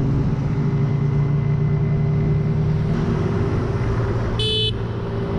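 Motor vehicle engine running steadily over road and wind noise, its note dropping slightly about three seconds in. A short beep sounds about four and a half seconds in.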